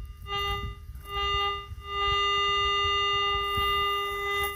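Metal detector target tone: a steady electronic hum that sounds three times as the coil passes over a buried coin, twice briefly and then held for nearly three seconds.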